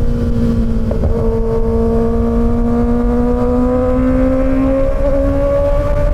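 Kawasaki Ninja ZX-6R's inline-four engine pulling at steady mid revs: the pitch eases slightly in the first second, holds, then climbs gradually through the second half as the bike accelerates. Wind rumble on the microphone runs underneath.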